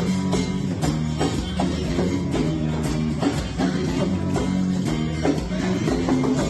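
Live rock band playing an instrumental passage without vocals: strummed guitar over a steady drum-kit beat.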